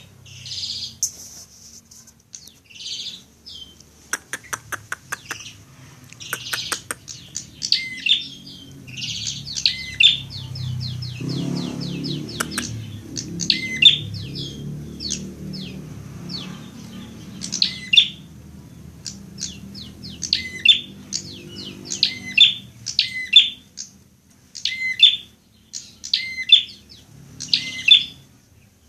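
Prinia (prenjak) singing: sharp, rapid chirping phrases, with a run of fast clicking notes around four to seven seconds in and the same short phrase repeated about every second and a half toward the end.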